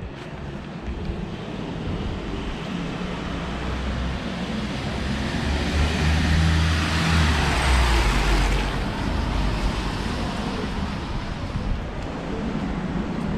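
Road traffic on a wet road: a passing vehicle's engine and tyre noise build to a peak about seven seconds in, then fade.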